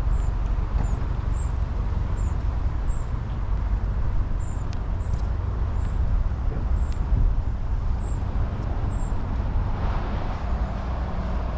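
A small bird chirping over and over, a short high note about every half second, over a steady low rumble. Near the end a broader rushing noise swells.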